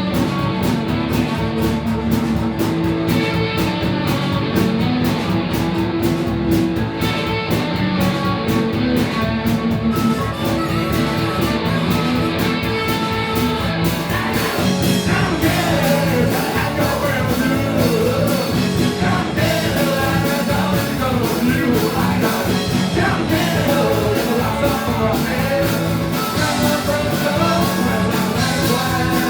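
Live rock band playing a song with electric guitars, bass and drums keeping a steady beat. A lead vocal comes in about halfway through.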